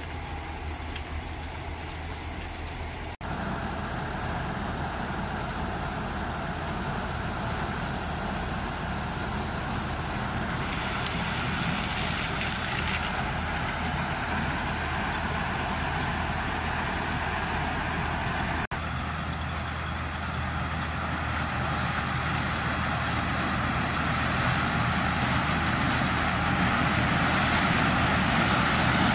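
New Holland 8080 combine harvester running steadily while harvesting corn, a continuous engine and machinery drone that grows gradually louder.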